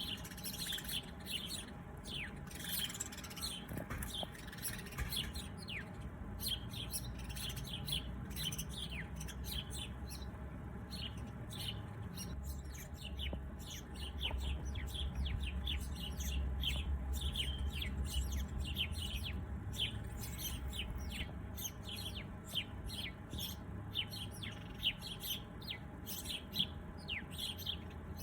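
Small birds chirping continuously: many short, quick, downward-sliding high notes, several a second, with a low rumble underneath that grows stronger in the middle.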